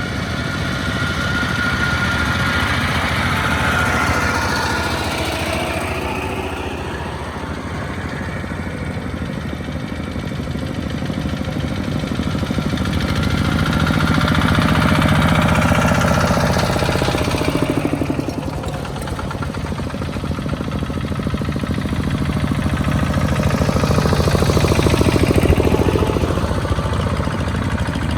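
Small two-wheel tractors' single-cylinder diesel engines chugging in a rapid steady beat, several going by one after another so the sound swells and fades about three times, loudest a few seconds in, mid-way and near the end.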